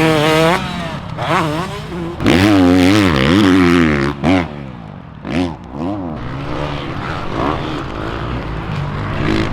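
Motocross dirt bike engines revving up and down on the track, the pitch climbing and dropping over and over, loudest a couple of seconds in, then fading to a steadier hum.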